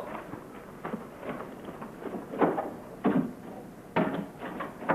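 A series of irregular knocks and thumps, about half a dozen over a few seconds.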